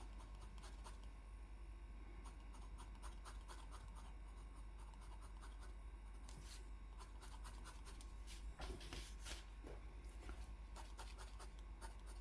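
Faint scratching and rubbing of a drawing tool across paper as an area is coloured in, in many short strokes.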